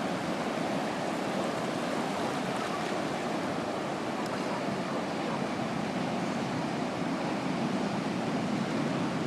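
Steady wash of ocean surf breaking on a beach, an even unbroken rushing sound.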